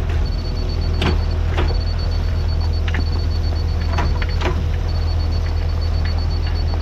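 Diesel engine of compact earthmoving equipment running steadily with a low drone, with several sharp clicks or knocks scattered through it.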